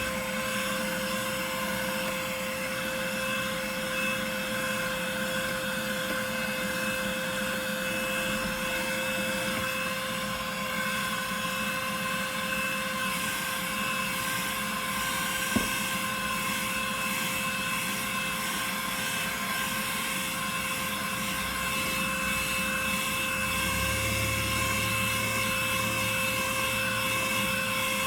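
Vacuum cleaner running steadily with a constant motor whine, with a single sharp click about halfway through.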